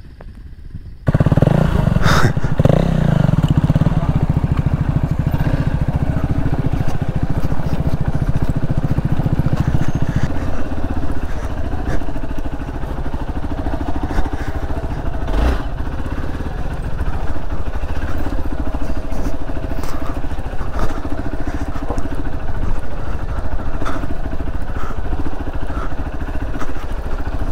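Motorcycle engine running close up, coming in abruptly about a second in, with its note dropping about ten seconds in and a few short knocks and clatter along the way.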